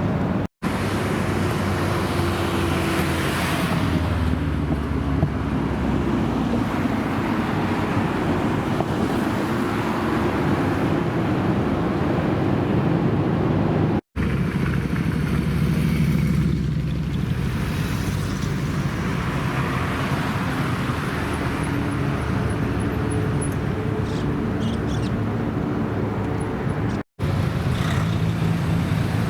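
Car engines running, heard in several stretches separated by sudden brief drops to silence.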